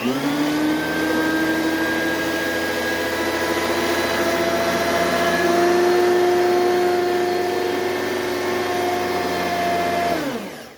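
Oreck XL2600HH direct-air upright vacuum switched on, its motor rising quickly to speed and running steadily with a loud whine. It is switched off about ten seconds in and its pitch falls as it winds down.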